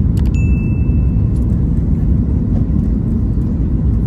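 Steady low rumble of a Boeing 737 MAX 8 cabin as the airliner taxis after landing, with a short, steady high beep about half a second in.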